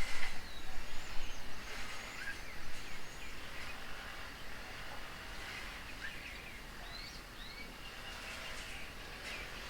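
Wild birds calling outdoors: scattered short chirps and brief whistled notes over a steady background hiss. A louder noise at the very start dies away over the first few seconds.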